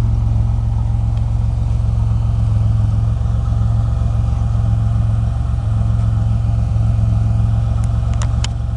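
Turbocharged 3.8-litre Buick V6 from a 1987 Grand National, swapped into a 1986 El Camino, idling steadily and smoothly. A couple of light clicks come near the end.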